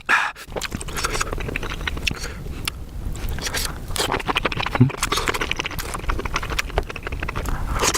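Close-miked wet chewing and mouth sounds of someone eating a mouthful of mushrooms, with many small smacks and clicks.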